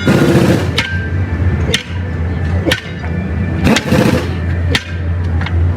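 Hammer blows on the metal of a truck wheel during tire work, about once a second, six strikes in all, over a steady low hum.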